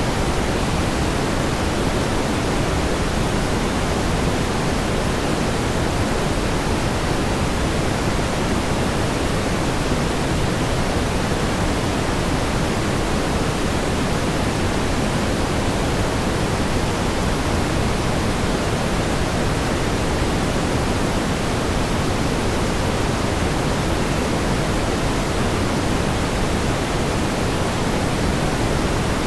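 Steady pink noise: an even, unchanging hiss weighted toward the low end, with no rhythm or events.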